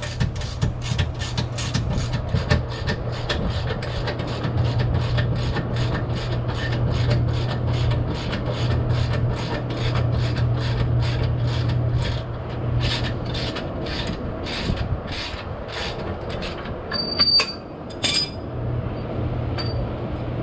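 Ratchet wrench turning out a differential mounting bolt, clicking in quick strokes about three times a second for most of the time, then stopping. A few metallic clinks follow near the end, over a steady low hum.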